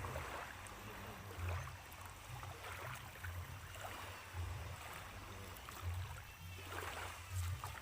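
Faint wash of water at the shoreline, with repeated low rumbles about once a second.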